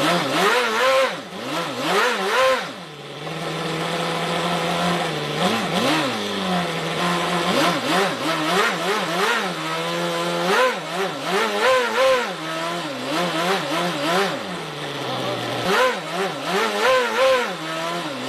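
Toyan miniature multi-cylinder nitro model engine running on glow fuel, its throttle blipped again and again into quick revs, with short stretches of steady idle in between.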